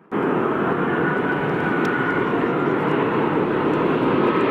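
Airliner engines running loud over a steady rushing noise, with a high whine that slowly rises in pitch. The sound cuts in suddenly.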